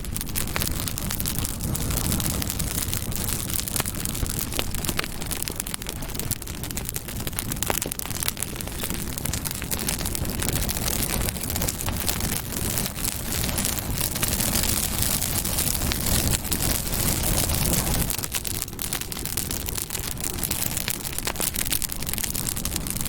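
Campfire burning, with many small crackles and pops over a steady low rushing of the flames.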